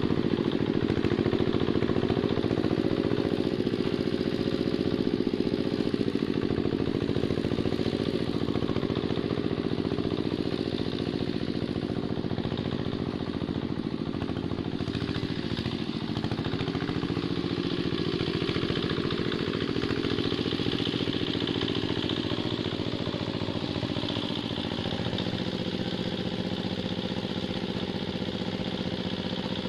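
Two-wheel hand tractor engine running steadily, with a continuous rapid firing beat.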